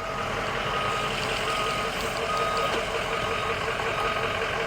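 Septic pumper truck's backup alarm beeping about once a second over its running engine as the truck reverses.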